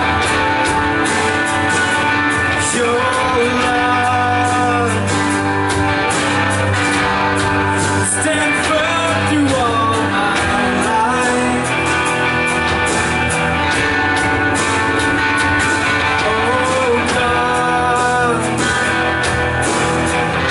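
Live worship band playing a rock-style song, with guitar and singing voices between the sung lines.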